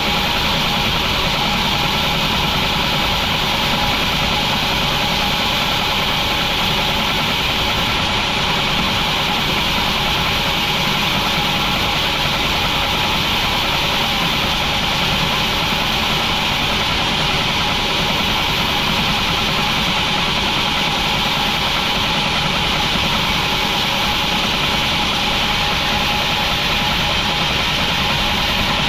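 Sawmill machinery running steadily, with no change in pitch or level.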